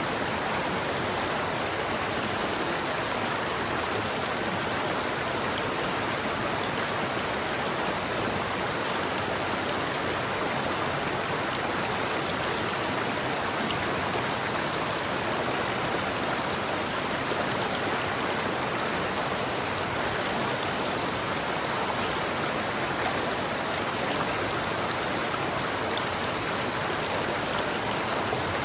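River water flowing over rocks: a steady, even rushing with no let-up.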